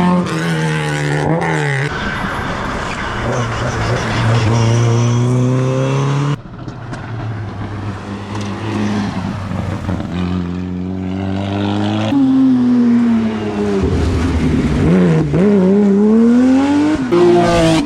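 Rally cars driven hard on a stage, their engines revving high and dropping through gear changes and braking. Several separate passes follow one another, each breaking off abruptly into the next.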